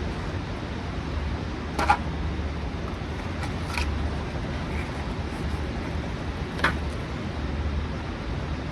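Steady low wind rumble on the microphone, with three sharp clacks about two, four and seven seconds in.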